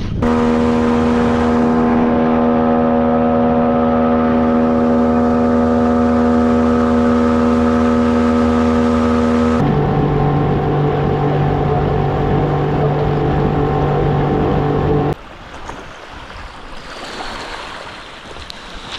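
Outboard jet boat motor running at steady revs. About ten seconds in the engine note cuts abruptly to a different, lower one, and about fifteen seconds in it cuts to quieter rushing water and wind.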